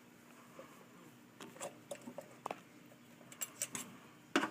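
Faint, scattered light clicks and taps of handling, with a sharper click near the end.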